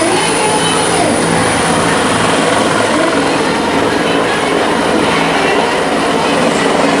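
Helicopter running close by: loud, steady rotor and engine noise with a steady low hum that fades about five seconds in.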